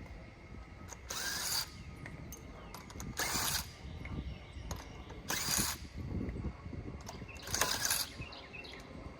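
A car jack being worked to raise a car: four short ratcheting rasps, one about every two seconds.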